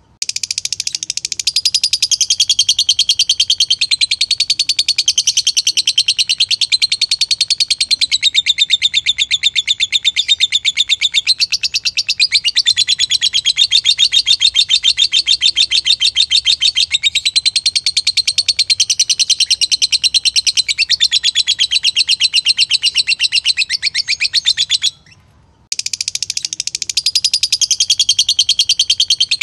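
Lovebird singing one long, fast, unbroken chattering trill of rapidly repeated high notes. It breaks off for under a second about 25 s in, then starts again.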